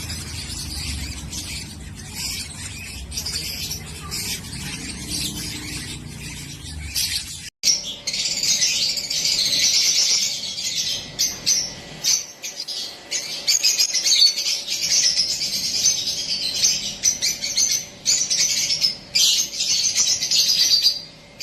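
Baby parrot chicks calling: fainter high chirps over a low hum at first, then, from a cut about seven seconds in, loud, nearly continuous high-pitched harsh chirping.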